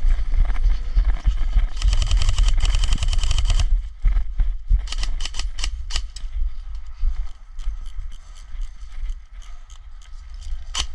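Airsoft guns firing, with one dense rapid-fire burst of clicks about two seconds in that lasts under two seconds, then scattered shorter bursts and single shots. A low rumble on the microphone runs through the first four seconds.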